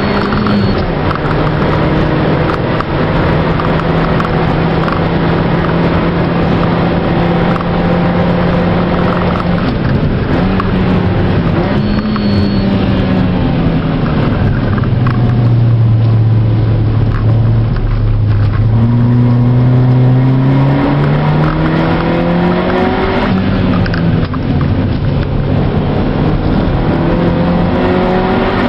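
Mazda2 four-cylinder engine heard from inside the cabin at racing pace: steady high revs on the straight, then the revs fall low as the car brakes and shifts down for a slow corner, and climb again through the gears with one upshift along the way. Constant tyre and road noise underneath.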